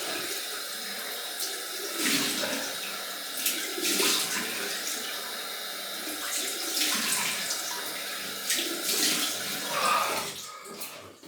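Cold water running from a tap into a sink, with repeated louder splashes as it is scooped up for a post-shave face rinse. The water sound fades out near the end.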